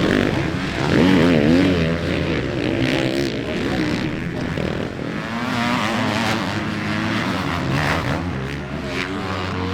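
Motocross motorcycle engines revving up and down on the track, the pitch rising and falling every second or so as the riders work the throttle.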